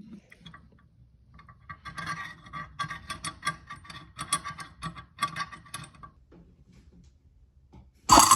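Garbage disposal scraping and rattling in quick, irregular metallic strokes while it is worked by hand, a scrape the owner blames on the turning. Near the end the disposal motor switches on loudly and runs steadily.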